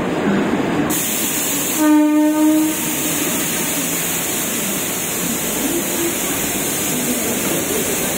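WCAM-2 electric locomotive and its express coaches rolling slowly past on departure, with steady running noise. About two seconds in, a short two-part horn blast sounds, the loudest thing heard, and a high hiss joins about a second in.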